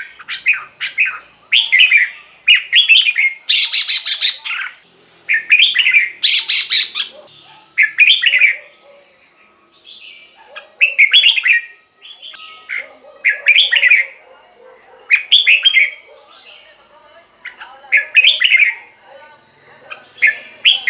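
Red-whiskered bulbul singing: short whistled phrases about a second long, repeated about a dozen times with brief pauses between them.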